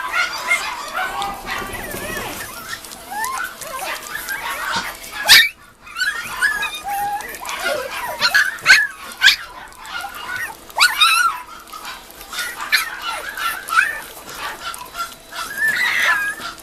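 Mame shiba puppies whimpering and yipping: many short, high squeals overlap, with a few sharp, louder yelps.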